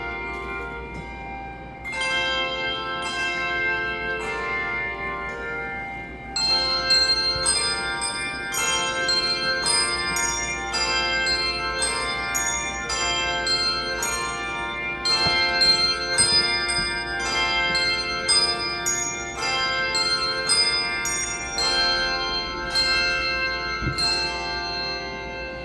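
Handbell choir playing a tune: struck bell chords, several a second, each ringing on and overlapping the next. The playing gets louder about six seconds in and dies away near the end.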